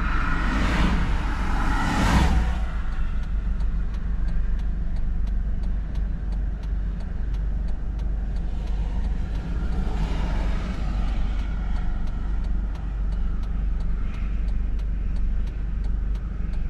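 Car cabin noise while driving: a steady low rumble of engine and tyres, with faint, evenly spaced ticks.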